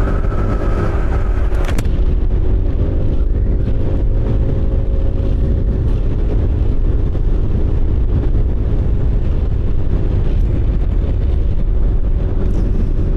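Motorcycle engine running at steady road speed under heavy wind rush on the microphone, the engine note shifting slightly in pitch a few seconds in and again later on.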